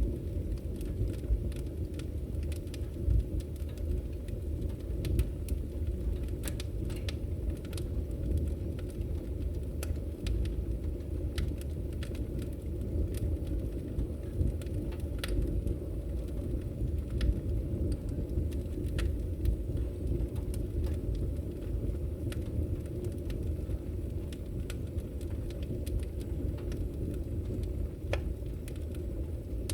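Firewood burning: a steady low rumble of the fire with frequent sharp crackles and pops scattered over it.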